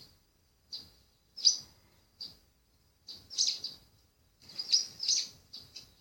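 Small songbirds chirping in a bird video played through a device's speaker: a series of short, high-pitched chirps at irregular intervals, with busier bursts about three and five seconds in.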